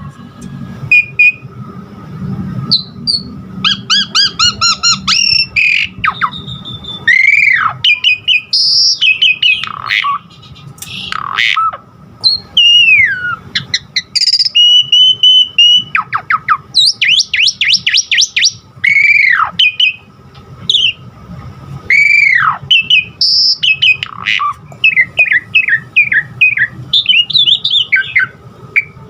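Javan pied starling (jalak suren) singing a long, varied song: loud whistles, long downward-sliding notes, fast runs of short repeated notes and harsh squawky calls, one phrase after another with hardly a pause.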